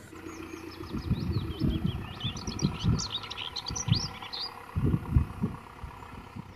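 Small birds chirping in quick short calls through the first half or so, over low, uneven thumps and rumbling.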